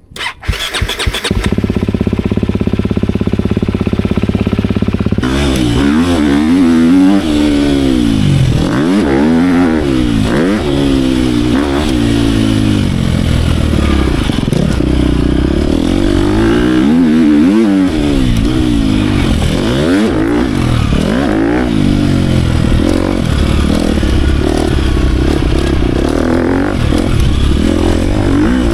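GasGas 250F four-stroke single-cylinder dirt bike engine starting at once, idling steadily for a few seconds, then revving up and down over and over as it is ridden on the track.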